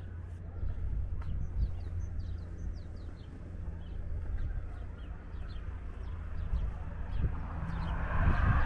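Small birds chirping in short, quick notes over a steady low rumble. Near the end a broad rushing noise swells up and becomes the loudest sound.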